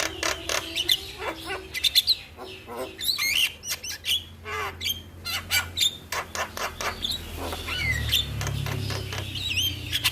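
Javan mynas (jalak kebo) calling: a fast, busy string of clicks, harsh chattering notes and short whistles that slide up and down. A low hum grows louder about eight seconds in.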